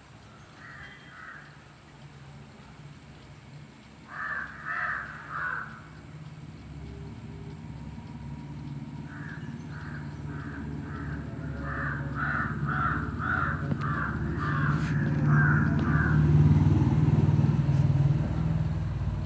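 Crows cawing in short repeated calls: a few near the start, a cluster about four seconds in, then a long run of about a dozen caws. Beneath them a low hum, like an engine, builds steadily and is loudest near the end.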